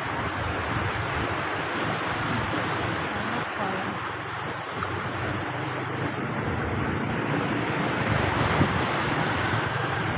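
Steady rushing of floodwater, with wind buffeting the microphone.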